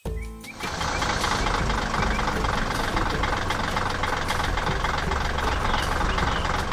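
Heavy construction-vehicle diesel engine running steadily, coming in about half a second in after a brief silence.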